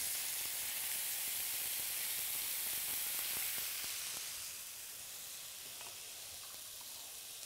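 Food sizzling in hot oil in a pan, a steady hiss that drops to a quieter level about four and a half seconds in.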